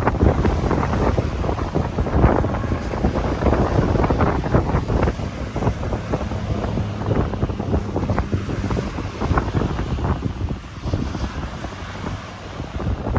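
Strong wind gusting and buffeting the microphone with a low rumble, over the wash of ocean waves breaking.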